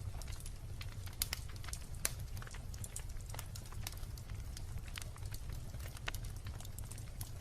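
Wood bonfire crackling, with irregular sharp pops and snaps of burning wood over a steady low rumble.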